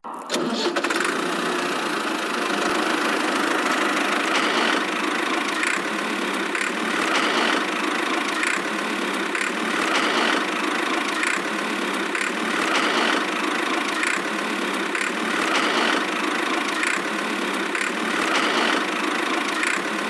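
A small motor running steadily, with a brighter swell about every second and a half.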